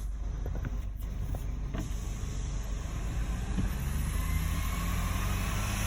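Garbage truck engine running and growing louder as the truck draws near, with a whine rising in pitch over the second half.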